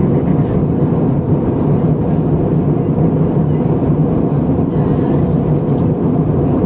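Steady drone of an Airbus A320 heard from inside the cabin: engine and airflow noise, low and even, while the airliner descends towards landing.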